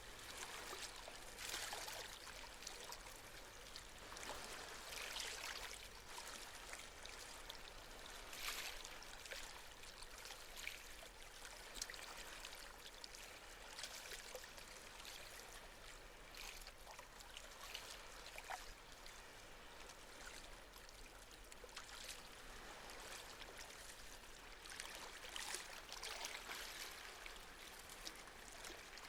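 Gentle sea waves washing ashore: a soft, continuous rush of water that swells and eases every few seconds.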